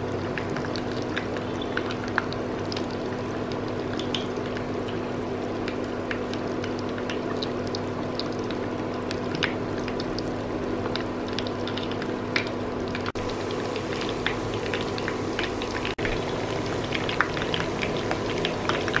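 Batter-coated breadfruit slices sizzling in hot oil in a frying pan, with many small pops, over the steady hum of the electric stove's cooling fan.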